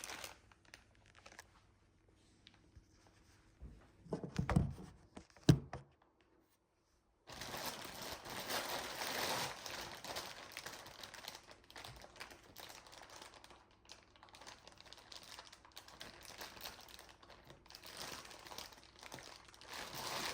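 A few knocks from handling the cardboard box, the loudest about five and a half seconds in. After a brief dead gap comes continuous crinkling of the polythene cover being handled and pulled off.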